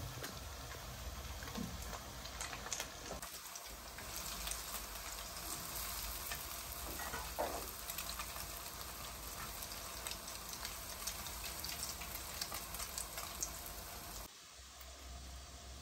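Potato kuku patties sizzling and crackling as they shallow-fry in hot oil in a pan. The sizzling cuts off near the end.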